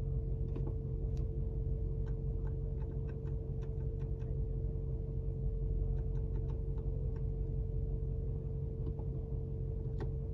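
Light, irregular clicks of the car's infotainment controller being turned and pressed through menus, over a steady low hum in the cabin.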